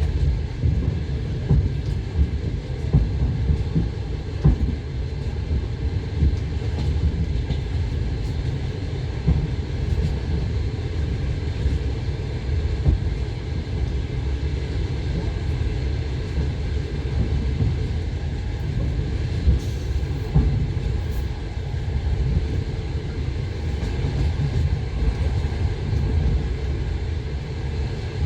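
Passenger train running on the line: a steady low rumble of wheels on rails, with a few faint, irregular knocks.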